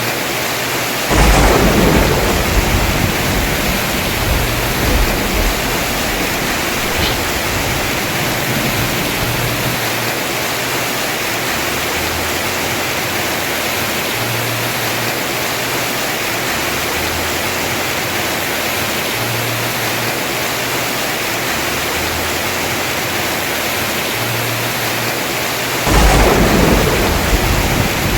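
Heavy rain pouring steadily on a house roof. A sudden thunderclap about a second in rolls off into a low rumble over several seconds, and a second thunderclap breaks near the end.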